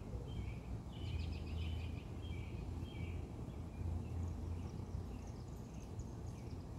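Small birds chirping, several short chirps in quick succession for the first few seconds and fainter ones after, over a steady low rumble of outdoor background noise.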